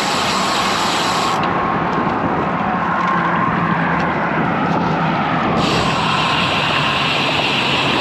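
Steady road noise from cars and trucks passing close by, mixed with wind rushing on the microphone.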